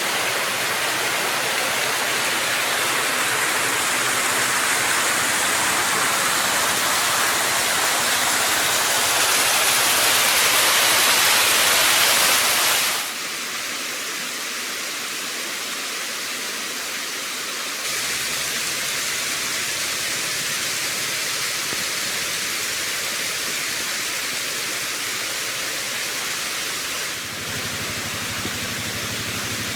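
Creek water rushing steadily far below a railway trestle. It drops suddenly about thirteen seconds in and comes back up a few seconds later.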